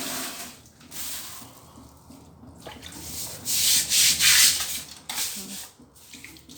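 Stiff scrubbing brush worked back and forth over wet ceramic wall tiles treated with bleach. It gives hissing scrubbing strokes with short pauses between them, fastest and loudest about halfway through.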